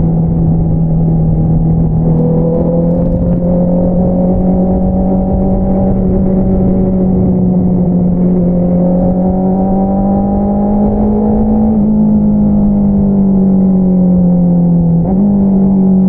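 Honda CBR650R's inline-four engine running through an Akrapovič single-outlet exhaust while riding. The pitch climbs slowly, then eases back, with two short hitches about twelve and fifteen seconds in.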